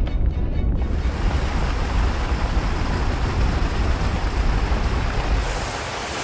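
Rushing, hissing spray of a fire hose's water jet over a deep, steady rumble. The hiss sets in about a second in and turns brighter near the end.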